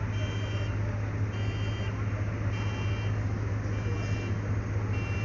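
Heavy construction machine's engine running steadily with a low hum, while a reversing alarm beeps in a slow, even rhythm of about one half-second beep every 1.2 seconds.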